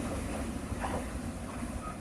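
Train rumble slowly fading as the train moves away.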